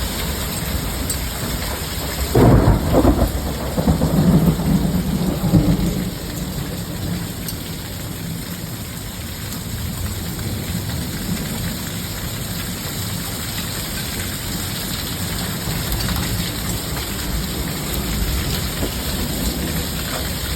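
Steady rain during a thunderstorm, with a loud clap of thunder about two seconds in that rumbles on for a few seconds before the rain alone continues.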